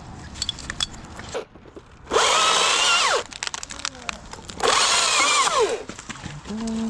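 Chainsaw revved in two short cutting bursts of about a second each, the second following about a second and a half after the first ends; the pitch drops as the throttle is let off at the end of each. The saw is cutting through a limb that is still holding on to the tree.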